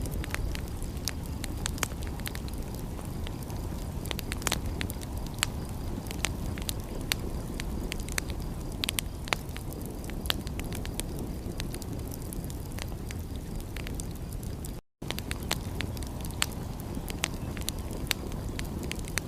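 Wood fire crackling, with irregular sharp pops and snaps over a steady low rumble. The sound cuts out completely for a moment about fifteen seconds in.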